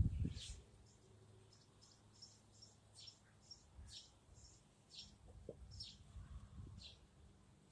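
Birds chirping faintly: short high calls about once a second, with quicker, softer notes between them, over a faint low steady hum.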